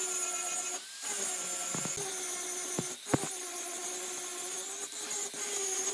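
Electric power tool motor running at a steady pitch, stopping briefly about a second in and again around the middle, with a few sharp knocks in between.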